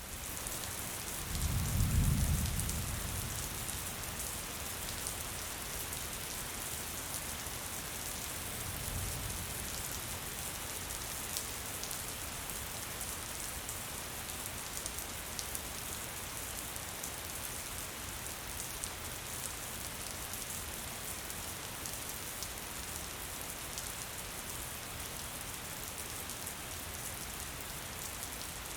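Steady gentle rain hissing, with a low rumble about two seconds in and a fainter one around nine seconds.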